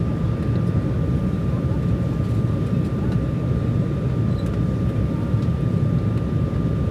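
Steady cabin noise of an Embraer 195 airliner in flight on its descent: a low rumble of the turbofan engines and airflow with a thin, steady whine above it.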